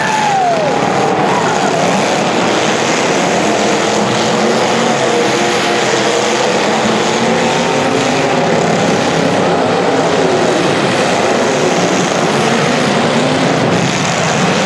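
Several small racing engines running at once during a heat, their overlapping whines gliding up and down in pitch as they rev and back off.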